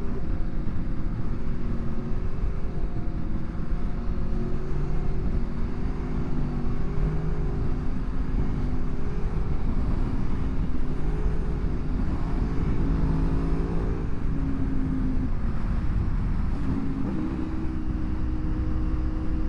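Aprilia Tuono motorcycle engine running on the move, its note stepping up and down with throttle and gear changes and settling into a steady higher pitch near the end, over constant wind rush on the rider's microphone.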